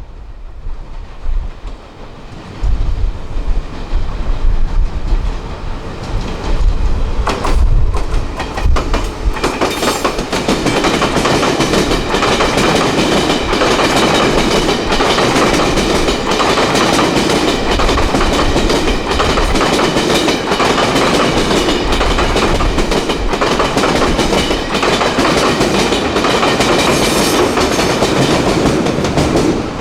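A train running close by, its wheels clattering over rail joints; the sound builds over the first ten seconds and then holds steady. Wind buffets the microphone at the start.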